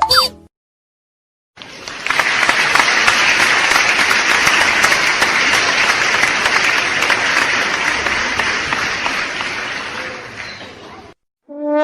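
Crowd applause, many hands clapping at once, starting about a second and a half in, easing slightly and cutting off near the end.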